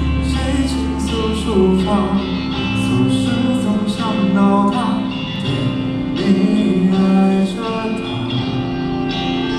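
Live band music: guitars with a singing voice over a steady beat.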